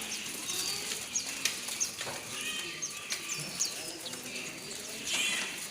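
Many caged birds chirping and calling at once, short sharp chirps and quick downward whistles overlapping, with a brief rustling rush near the end.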